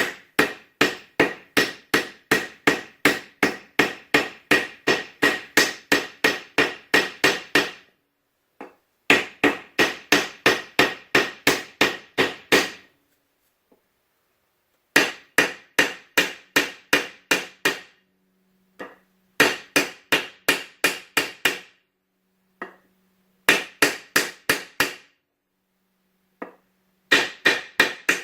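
Hammer blows in quick runs, about three a second with short pauses between runs, driving a bearing into a garden tractor transaxle's case half.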